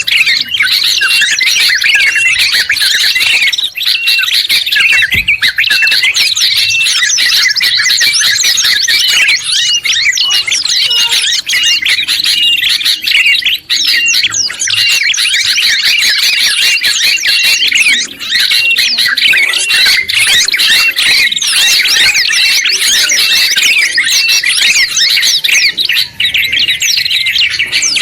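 Dense, unbroken mix of songbird song and calls: many rapid high chirps and short repeated phrases overlapping, from a combined recording of bulbuls (trucuk and kutilang), white-eyes (pleci) and prenjak.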